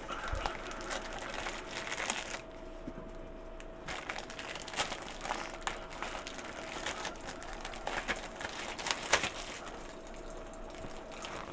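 Crinkling and rustling handling noise with many scattered clicks and taps, in two stretches with a short lull about two seconds in. A faint steady hum runs underneath.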